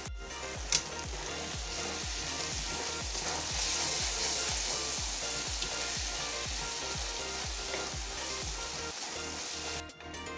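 Tomato-onion masala sizzling as it fries in a kadhai while being stirred with a spatula, with one sharp click about a second in.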